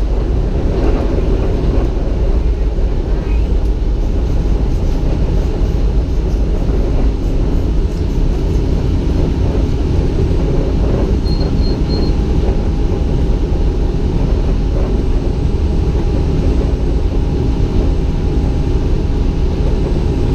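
Steady low rumble of a theme-park train running, heard from on board. About eleven seconds in come three short high chirps, and a faint steady tone sets in.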